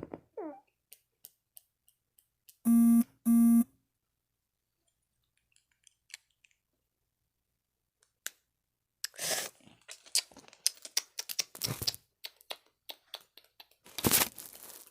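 Two short, loud electronic beeps in quick succession about three seconds in. Later come scattered clicks and rustling from things being handled, with a louder rustle near the end.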